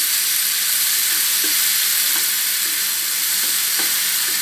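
Chopped onion, tomato and green chillies sizzling steadily in hot oil in a pan, with a wooden spatula stirring and scraping through them.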